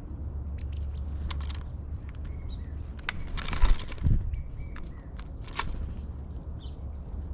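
Small birds at a backyard feeder: scattered taps and cracks of seed-pecking and a few short chirps, with a brief louder rustling flurry about three and a half seconds in, over a steady low hum.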